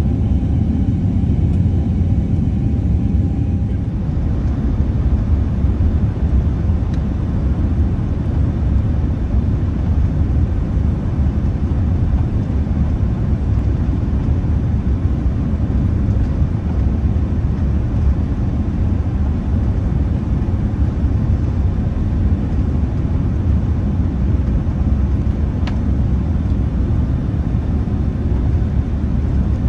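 Steady low rumble of airliner cabin noise inside a Boeing 787-10: engines and airflow heard from a passenger seat. The hiss brightens a little about four seconds in.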